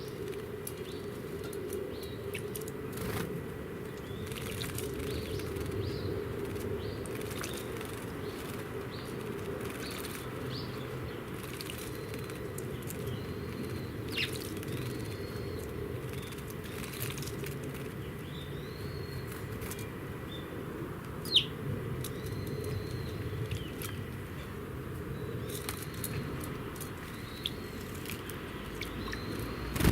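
Small songbirds at a garden birdbath giving many short, high chirps, with scattered sharp clicks and wing flutters; one louder click about two-thirds of the way through. A steady low hum runs underneath.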